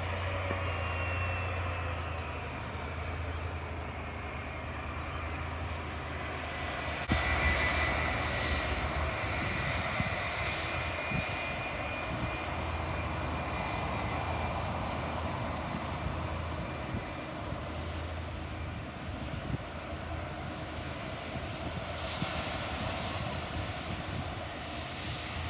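Airliner engines running at the airfield: a steady roar with a high whine, which turns suddenly louder about seven seconds in and stays up.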